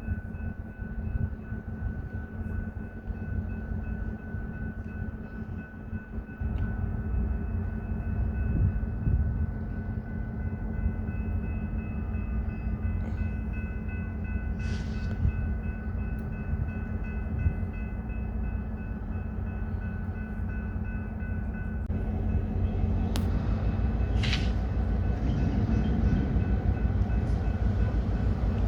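Freight train on the move behind a diesel locomotive: a steady low rumble of engine and rolling cars that grows louder about six seconds in and again in the last several seconds. A faint steady high whine sits over it and stops about 22 seconds in, and a couple of short sharp clanks stand out near the middle and toward the end.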